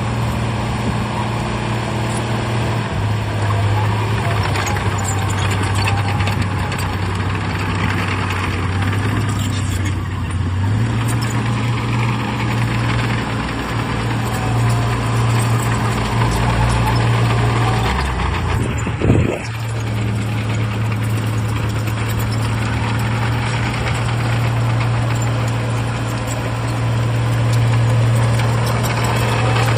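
Heavy diesel engine of earthmoving machinery running with a steady low drone, its pitch stepping a few times, with one sudden loud knock about two-thirds of the way through.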